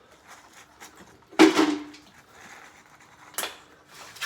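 Kitchen dishware handling: one loud clink with a brief ring about a second and a half in, and a smaller sharp click near the end.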